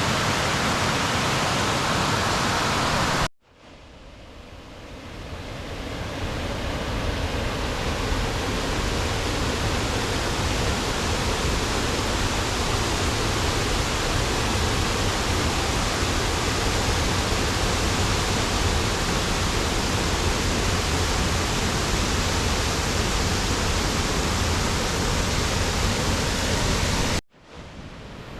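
Steady rush of a waterfall, water pouring through a narrow channel and tumbling over the falls. The sound cuts out abruptly about three seconds in and swells back over a few seconds, then cuts out again near the end.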